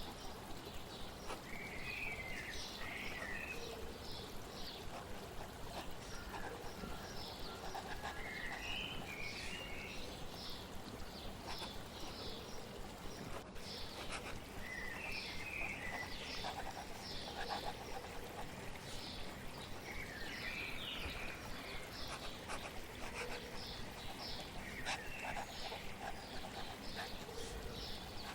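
Songbirds singing: a short warbled phrase repeats every few seconds among a rapid series of quick high chirps, over steady flowing water.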